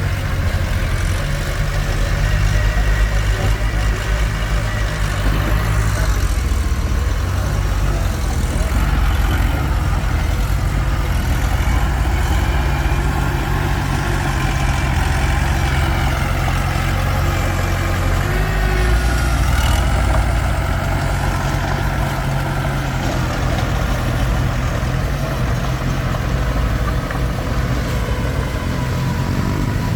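Komatsu D21P bulldozer's diesel engine running steadily as the machine works, its engine note shifting a few times.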